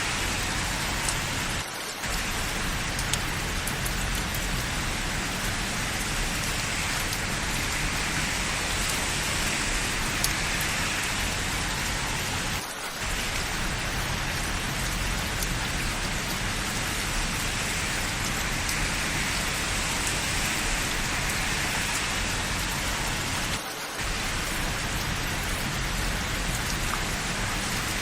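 Steady rain: a dense, even hiss with scattered small drop ticks. It dips briefly three times, about every eleven seconds.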